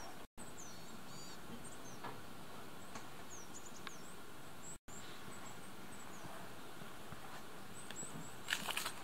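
Small birds calling with short, high chirps and quick falling notes over a steady outdoor hiss; the sound cuts out for an instant twice, and a brief cluster of sharp clicks comes near the end.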